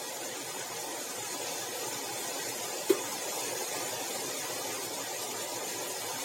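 Steady background hiss, broken once by a single short click just before the middle.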